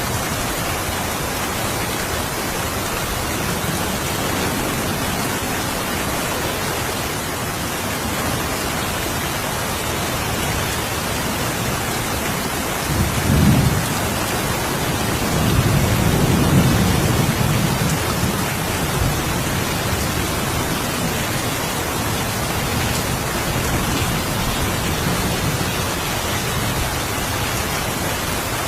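Steady rain, with thunder rumbling twice past the middle: a short low roll about thirteen seconds in, then a longer, louder rumble a couple of seconds later.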